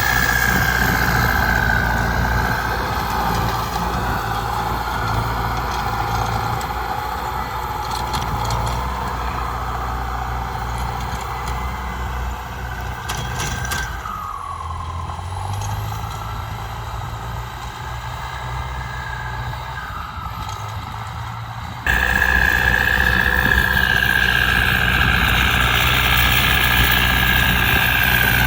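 Kubota ZT155 single-cylinder diesel engine of a tractor running steadily, with a high whine over the engine note. Around the middle the sound drops a little and the whine dips in pitch; about three-quarters of the way in it jumps abruptly back louder.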